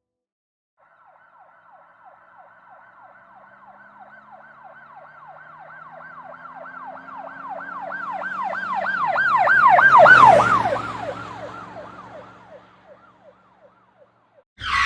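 Police car siren in a rapid yelp, about three sweeps a second over a low engine rumble, approaching and growing louder to a peak about ten seconds in, then dropping in pitch as it passes and fading away.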